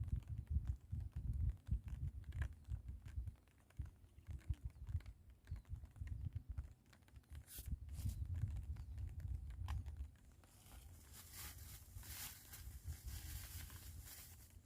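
Strong wind buffeting the microphone in uneven gusts, with scattered light clicks. About ten seconds in the gusts ease and a steady hiss takes over.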